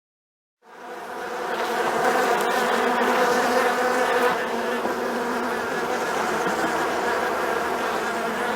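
Bees buzzing as a swarm: a steady, dense humming drone that starts about half a second in.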